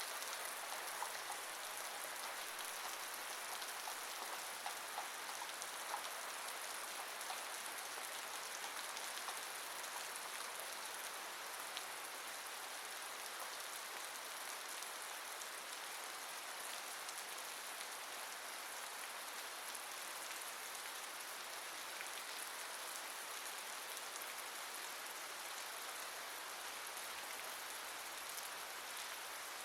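Steady rain falling, an even hiss with scattered individual drops ticking, more of them in the first few seconds.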